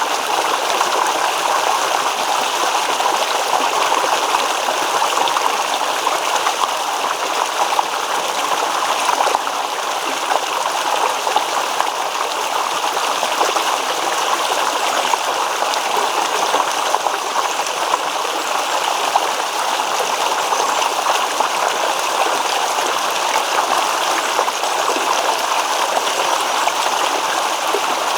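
Shallow stream babbling and rippling over stones, a steady continuous flow.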